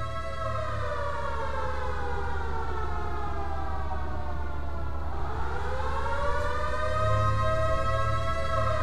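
Air-raid siren wailing: its pitch falls slowly for about five seconds, then rises again and holds high near the end, over a steady low hum.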